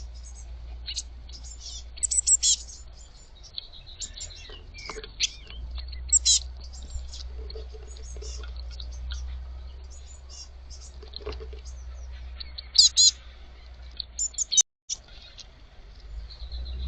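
Young blue tits calling at a bird feeder: many short, high chirps in irregular clusters, over a steady low rumble. The sound cuts out for a moment about three-quarters of the way through.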